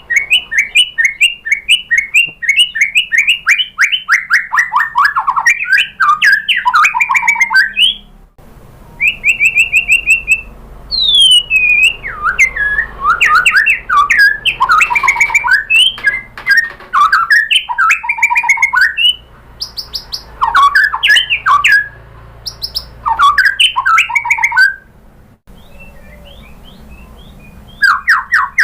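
White-rumped shama (murai batu) singing loud, varied phrases: fast runs of short repeated notes, whistled up-and-down glides and harsher chattering notes, broken by short pauses.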